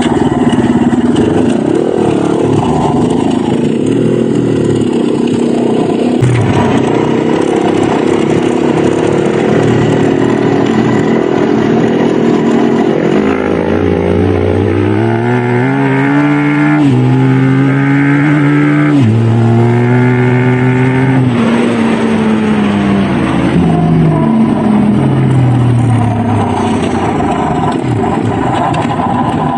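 Dirt bike engine running along a trail. About halfway through it revs up in pitch through several gear changes, then eases off.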